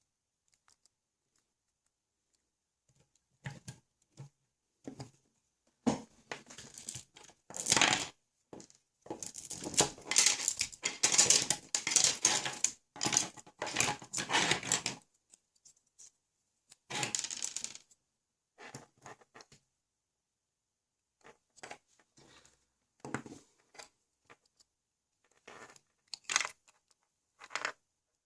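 Hand-handling noises: scraping, rustling and sharp clicks of small parts being worked by hand, in irregular bursts, busiest from about six to fifteen seconds in.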